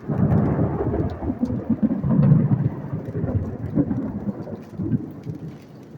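A clap of thunder that breaks suddenly and rolls on as a low rumble for about five seconds, loudest about two seconds in and dying away toward the end, with rain falling.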